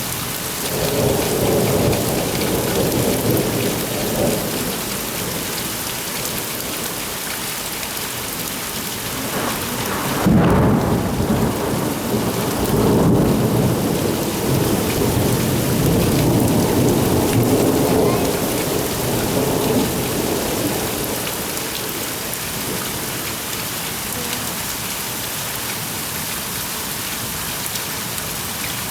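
Steady heavy rain with two rolls of thunder. The first rumble is brief, near the start; the second starts with a sharp crack about ten seconds in and rumbles on for about ten seconds before fading back to the rain.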